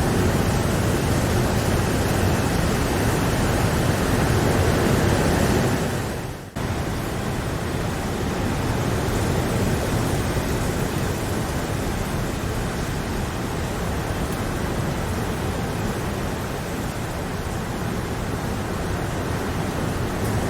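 Steady rain, an even, unbroken hiss. About six seconds in it fades and drops out for an instant, then comes straight back.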